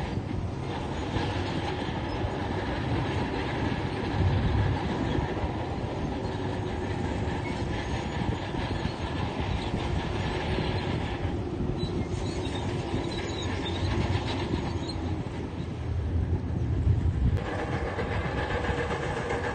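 Tracked heavy construction machine working: a diesel engine running under load with the clatter of steel tracks. The low rumble swells louder about four seconds in and again near the end.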